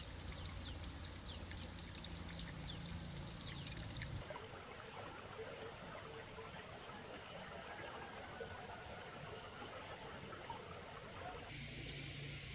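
Outdoor ambience of a steady, high insect drone, with short bird chirps over it in the first few seconds. The background changes suddenly twice, at about four seconds and near the end.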